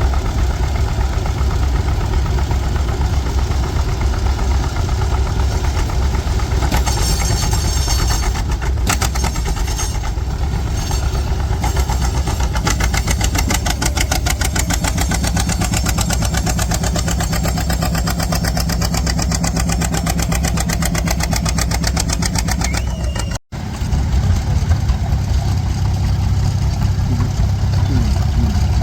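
Antique farm tractor engine running steadily with rapid, even firing pulses. It drops out for an instant about two-thirds of the way through, then carries on.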